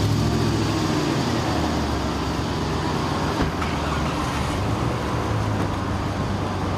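A steady low mechanical rumble of an engine running evenly, like a motor vehicle idling.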